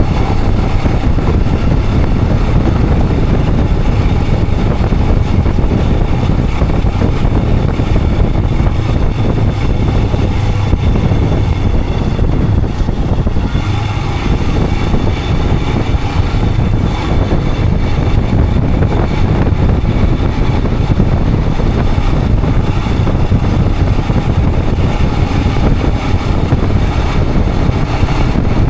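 Royal Enfield Himalayan 411's 411 cc single-cylinder engine running steadily under way, heard over a heavy low rumble of wind and road noise, with a brief easing of the engine about 13 seconds in.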